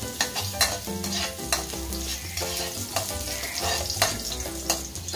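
Minced garlic sizzling in hot oil in a metal wok, with a metal spatula scraping and knocking against the pan about twice a second as it is stirred.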